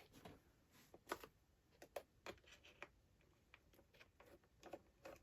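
Faint, irregular small clicks and ticks of a Torx T8 screwdriver working screws out of an iMac's LCD frame.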